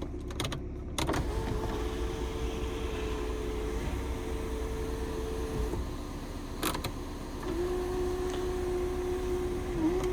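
Volkswagen Passat's electric sunroof motor running with a steady whine for about four and a half seconds, a click, then running again at a slightly lower pitch. The sunroof is working normally.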